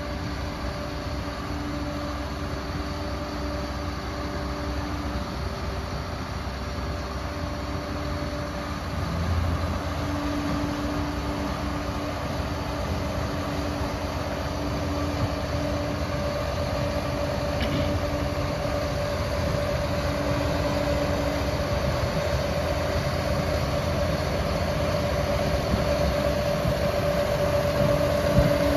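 Liebherr 746 crawler bulldozer working: its diesel engine runs steadily under the clatter of its tracks, with a steady whine over it, growing gradually louder.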